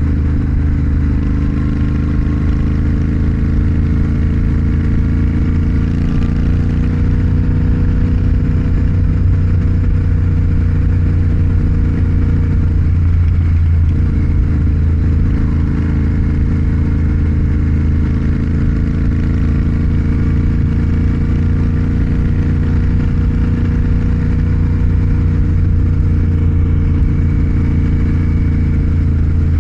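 Motorcycle engine running steadily at cruising speed, heard from the rider's position. The engine note dips briefly about halfway through, then settles back to a steady pitch.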